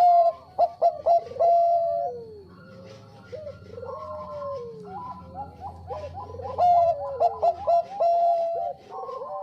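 Zebra dove (Bangkok perkutut) singing: repeated quick, clipped coos, each phrase ending in a falling note. It is loudest at the start and again about two-thirds of the way through.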